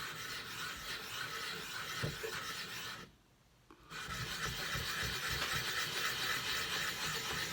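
Steady rasping scrape of rubbing on a wet whetstone, working up a slurry, broken by a pause of about a second a little after the midpoint.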